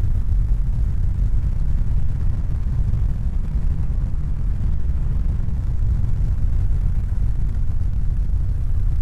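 Steady low rumbling noise, even and unbroken, with most of its weight in the bass.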